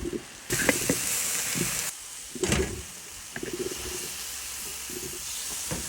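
Goose braise sizzling in a big iron wok as the sauce is cooked down nearly dry. A loud hiss runs for about a second and a half near the start, with a shorter burst about halfway through, then a softer sizzle.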